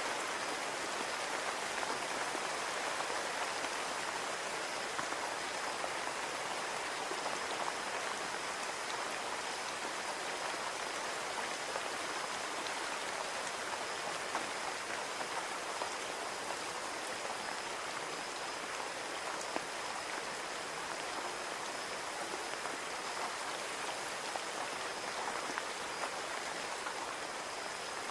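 Steady rain falling against a window pane, a dense even patter of drops that never lets up.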